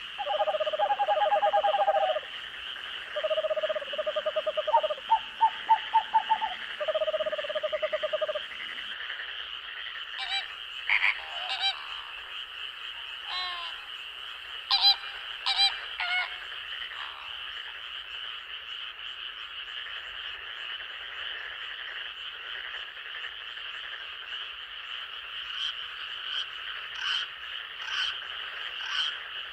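Night forest chorus: a steady high insect drone with frogs calling over it. Rapid pulsed croaking calls come for the first eight seconds or so, then scattered short, sharper calls.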